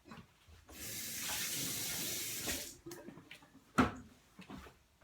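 Kitchen tap running for about two seconds while a small coffee scoop is rinsed under it, followed by a single sharp knock.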